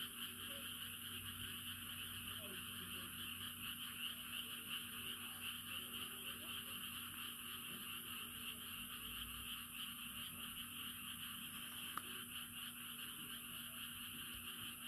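Dense, unbroken chorus of many frogs calling from flooded rice paddies, blending into a steady wash of sound that is like the sea.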